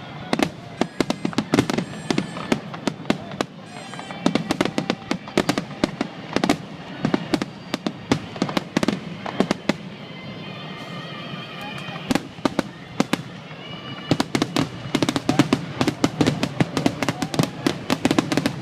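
Fireworks going off in rapid succession, a dense stream of sharp bangs and crackles that thins out for a few seconds past the middle, with some held tones in that lull, and then builds again toward the end.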